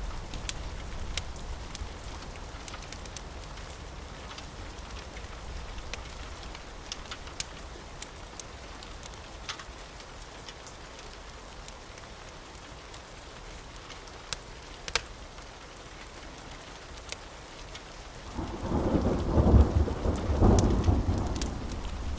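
Steady rain with scattered sharp ticks. About eighteen seconds in, a rumble of thunder swells for around three seconds and is the loudest sound.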